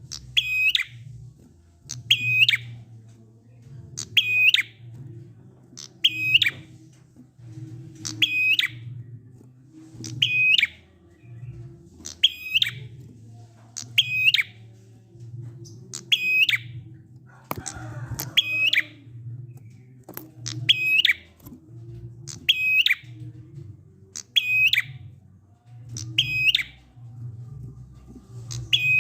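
Prinia (prenjak) giving a 'ngalun' call: one short, hooked call repeated about every two seconds, a lure recording meant to get silent prinias to join in.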